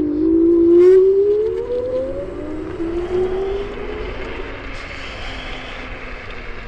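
Electric motors of a Chaos FreeRide 2400 W dual-motor electric scooter whining and rising in pitch as the scooter accelerates. After about three seconds the whine fades and a steady rush of wind and tyre noise takes over, slowly getting quieter.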